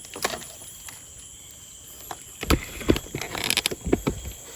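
Scattered knocks and rustles of close handling: quiet at first, then a cluster of sharp taps and thumps from about two and a half seconds in.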